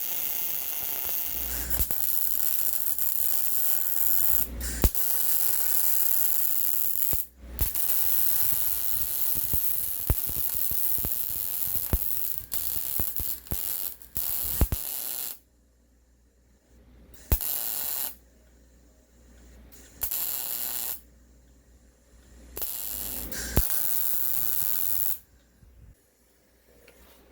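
Arc welding a patch onto a rusted-out steel control arm mount: a steady crackling hiss in two long runs of several seconds each, then in shorter bursts of two or three seconds with pauses between them.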